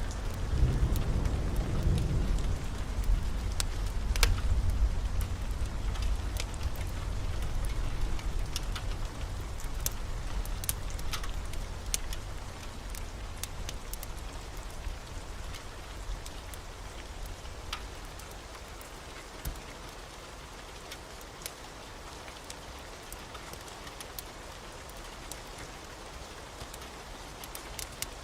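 Steady heavy rain, with a low rumble of thunder that rolls and fades out over the first several seconds, and scattered sharp ticks through the rain.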